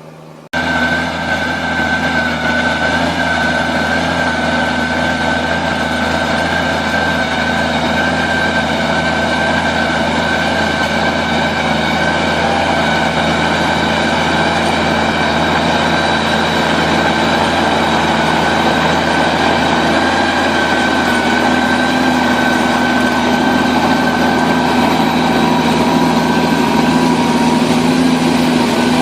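A machine's engine or motor running steadily, with a constant high whine over a lower hum; it cuts in abruptly about half a second in.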